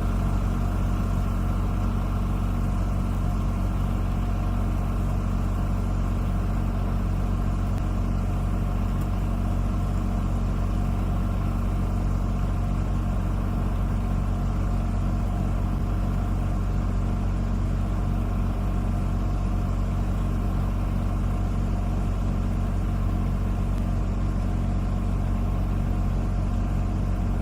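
An engine running steadily at an unchanging pitch, a constant low drone.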